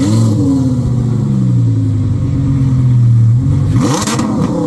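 Car engine revving: the pitch shoots up, then sinks slowly as the revs fall, with another sharp rev near the end.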